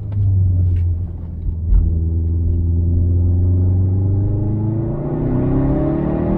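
Turbocharged 2.5-litre EJ257 boxer engine of a tuned Subaru WRX STi with its muffler deleted, heard onboard: it pulls at a steady low note, then revs rise over the last couple of seconds as it accelerates. A single sharp thump a little under two seconds in.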